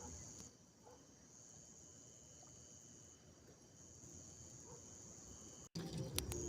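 Crickets trilling, a faint, steady, high-pitched chirr. Near the end it breaks off suddenly, and louder low noise with a few clicks comes in.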